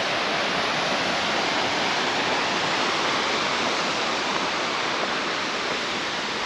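Steady rush of falling water from a waterfall pouring into a creek, with no breaks or changes.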